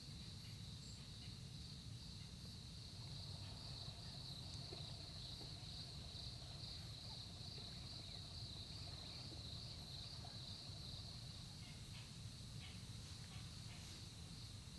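Steady chorus of crickets trilling in a continuous high band, over a low rumble of background noise, with a few faint ticks near the end.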